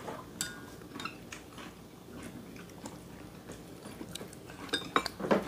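Quiet eating at the table: chewing with small scattered clicks of chopsticks and dishes, and a few sharper clicks near the end.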